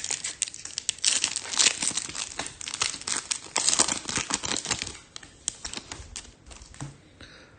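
Foil trading-card pack wrapper being torn open and crinkled, a dense run of crackling for about five seconds that thins out and goes quieter near the end.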